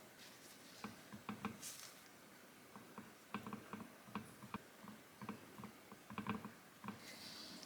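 Irregular light taps and clicks, some in quick clusters, with a faint hiss at the end.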